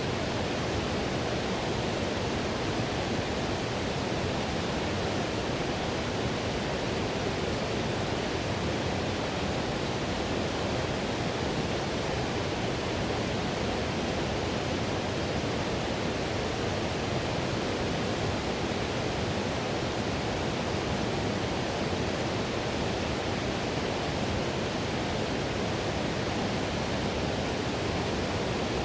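River whitewater rushing over rocks, a steady full rushing noise that does not change.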